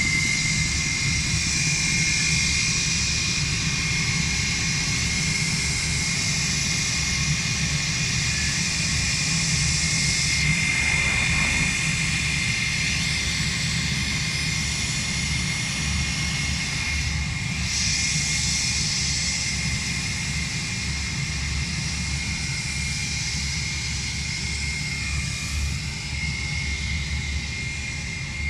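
Airliner engines running steadily at an airport, with a constant high whine over a low rumble.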